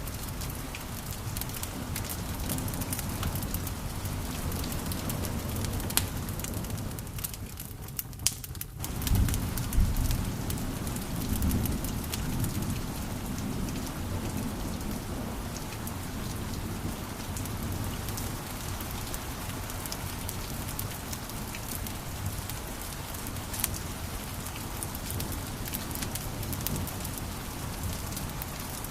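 Wood fire crackling and popping steadily, with many sharp pops over a continuous hiss. About seven seconds in the crackle thins briefly, then a low rumble rises for a second or two before the crackling carries on.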